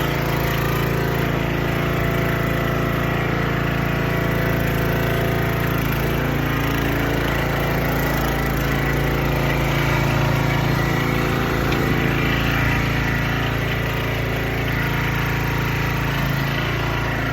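Snapper Comet riding mower's engine running steadily, with only small shifts in pitch.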